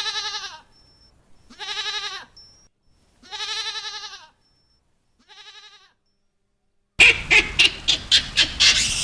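A farm animal bleating four times, each bleat a short quavering call with gaps of silence between. About seven seconds in, a different, noisier sound starts, with rapid sharp clicks.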